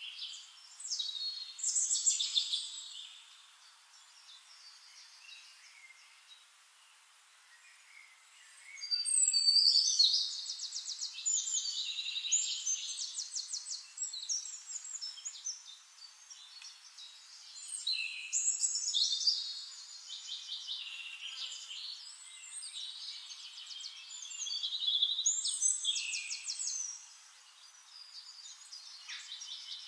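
Songbirds singing: phrases of high chirps and rapid trills, with a quieter stretch about four to eight seconds in.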